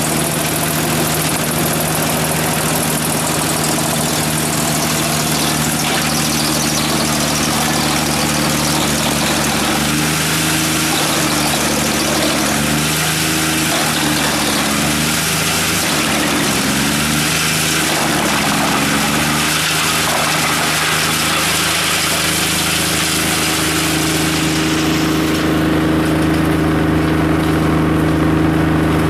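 Skorpion 280 SDBG drum wood chipper running on its three-cylinder diesel engine, a steady engine note under a loud hiss. The engine note wavers for several seconds in the middle. Near the end the high hiss falls away and a steady hum comes forward.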